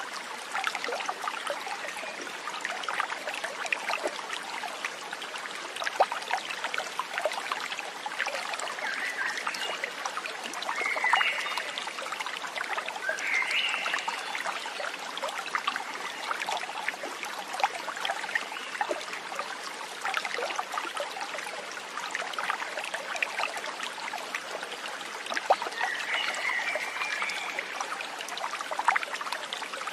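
A small stream trickling and babbling steadily, with a few short chirping animal calls around the middle and again near the end.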